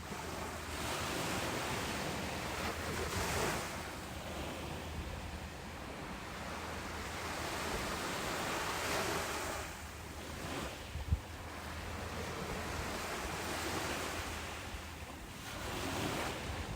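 Ocean surf breaking and washing up a beach, a steady hiss that swells and falls back with each wave every few seconds, over a low wind rumble on the microphone. A brief low thump about eleven seconds in.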